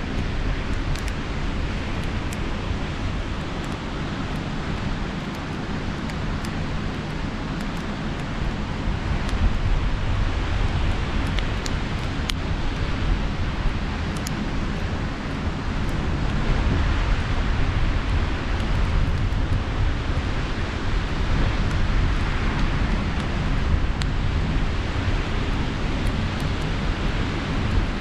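Campfire crackling with scattered sharp pops over a steady wash of ocean surf and a low rumble. The surf swells louder about nine seconds in and rises and falls after that.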